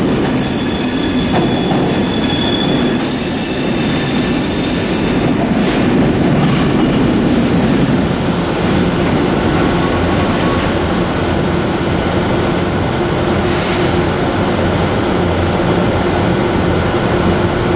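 Passenger train rolling slowly through station pointwork. High-pitched, multi-toned wheel squeal runs through the first five seconds or so, then a steady rumble with a low hum, and a short squeal again about 13 to 14 seconds in.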